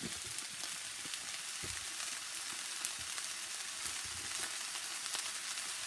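Fried rice with shrimp sizzling in a sauté pan while a wooden spatula stirs and scrapes through it, with a few light clicks of the spatula against the pan.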